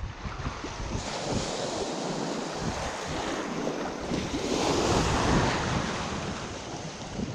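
Wind gusting over the microphone along with the rush of moving water, swelling about five seconds in.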